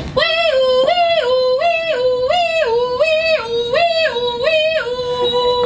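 A woman's voice imitating a two-tone fire engine siren, 'nee-naw', swapping between a higher and a lower note about seven times and ending on a held low note.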